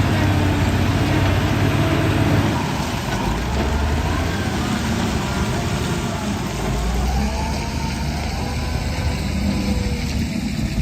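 Hydraulic excavator's diesel engine running steadily under work, its low note shifting a few times as the load changes.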